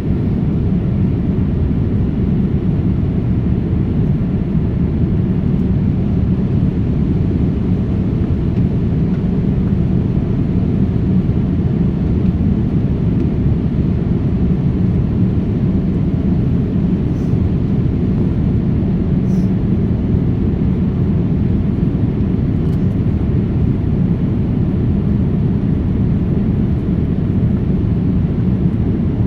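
Airliner cabin noise heard from a passenger seat: a steady, loud low rumble of the jet engines and airflow, unchanging throughout.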